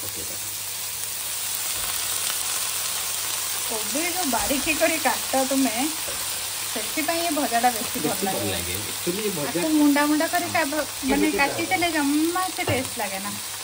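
Tomato-spice masala and freshly added shredded cabbage sizzling in a hot non-stick pan, a steady hiss. From about four seconds in, an indistinct voice talks over the frying.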